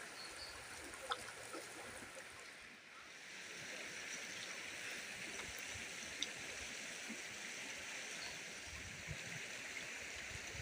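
River water flowing, a steady rushing that grows a little louder after about three seconds. A couple of short clicks, the sharpest about a second in.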